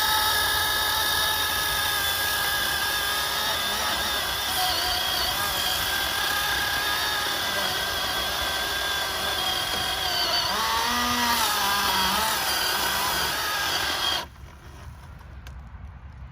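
Milwaukee Fuel cordless electric chainsaw cutting through a thick limb, its motor and chain giving a steady whine. The pitch drops and wavers as it bogs under load about ten seconds in, then the saw cuts off suddenly near the end, its 5 Ah battery run hot from the hard cut.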